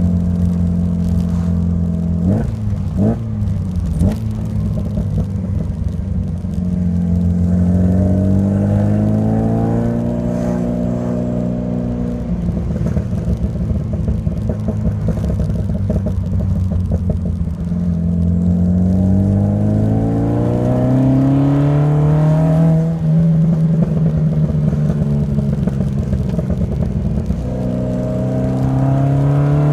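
Alfa Romeo Alfasud Sprint QV's 1.5-litre flat-four boxer engine through a stainless steel exhaust, under way. Its pitch climbs steadily for several seconds, then drops, again and again, as the car pulls and shifts up through the gears. A few short sharp knocks come about two to four seconds in.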